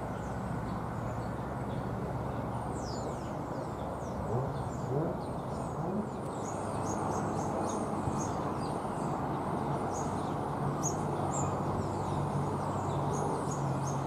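Small birds chirping repeatedly over a steady low rumble. From about three-quarters of the way through, a low engine hum comes in as a train approaches.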